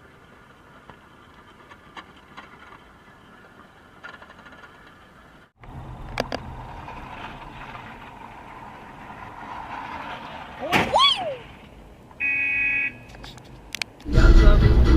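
Dashcam audio of driving: faint in-car noise, then after a cut steadier vehicle noise with a brief sliding cry or squeal and a short steady horn-like tone. Rock music with guitar comes in near the end.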